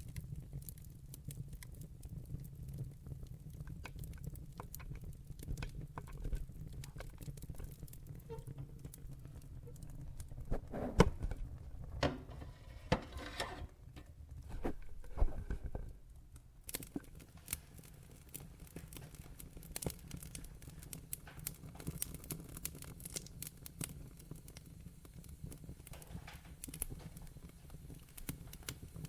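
Wood fire in a fireplace crackling, with scattered sharp pops over a low steady rumble of the flames. A cluster of louder pops and a brief hiss comes about 11 to 15 seconds in.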